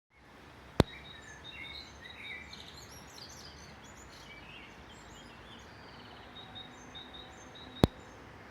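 Several songbirds singing overlapping short phrases over a steady low background noise. Two sharp clicks, about seven seconds apart, stand out above everything else.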